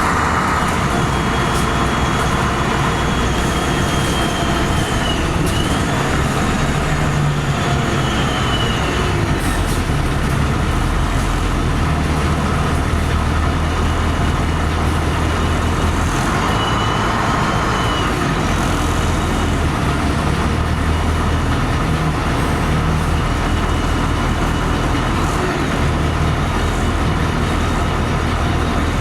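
LiAZ-5256 city bus heard from inside while driving: a steady engine hum that shifts up and down in pitch, with a thin high whine that rises and falls a few times, strongest in the first third and again briefly past the middle.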